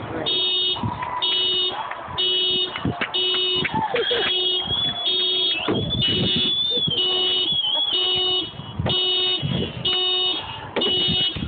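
Car alarm sounding, a tone beeping about once a second, with a wavering high tone over the middle few seconds.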